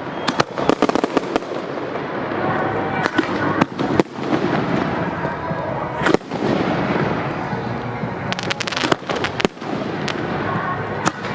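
Aerial fireworks display: a constant run of bangs and crackling, with quick clusters of sharp cracks near the start and again about three quarters of the way through.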